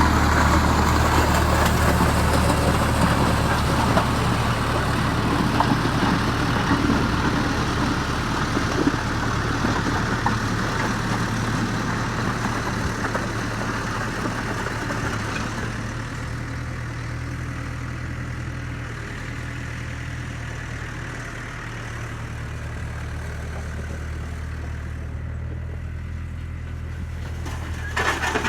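Skid steer engine running steadily while it pulls a homemade grader attachment along a driveway. The sound grows fainter from about halfway through as the machine moves away.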